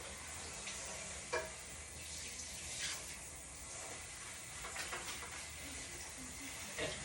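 Chicken faintly sizzling as it cooks in a pot, with a few clinks of a utensil against the pot, the sharpest just over a second in.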